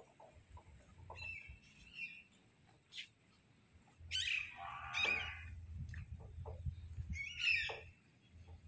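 Birds calling: a faint high call a little over a second in, a louder call about four seconds in that falls in pitch and lasts about a second, and another chirp at about seven and a half seconds, with scattered small clicks between.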